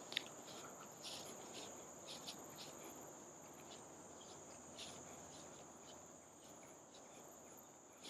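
Faint, steady, high-pitched drone of forest insects, with scattered short chirps over it.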